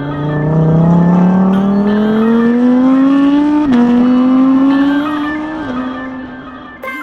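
Lamborghini Huracán EVO RWD's V10 engine through a Capristo valved X-pipe exhaust, accelerating: the note climbs steadily, drops sharply at a gear change about four seconds in, then climbs again and falls once more near six seconds.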